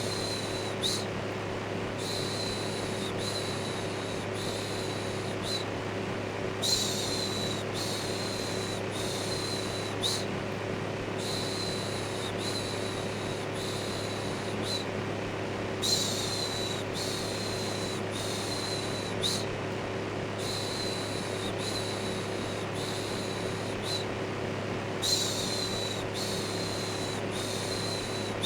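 An electric fan whirs steadily with a low hum. Over it, a 'shhh' shush repeats about once a second in runs, with brief pauses between runs.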